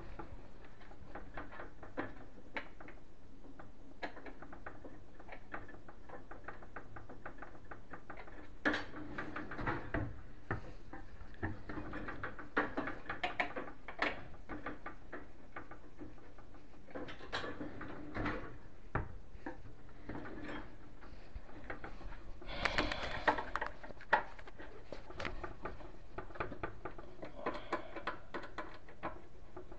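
Scattered light clicks, taps and rattles of cabinet hardware being handled, coming in bunches with short pauses between.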